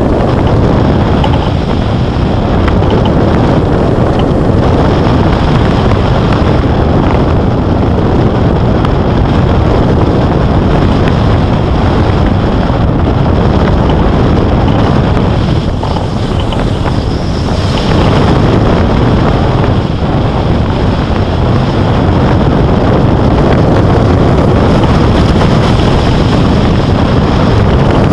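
Loud, steady rush of wind over the microphone in flight, the airflow of hang gliding. It eases briefly about halfway through.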